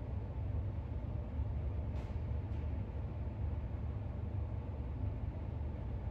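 Steady low background rumble, with two faint soft ticks about two seconds in.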